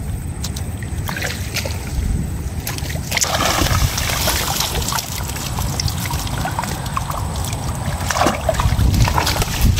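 Water splashing and sloshing, with a louder burst of splashing about three seconds in.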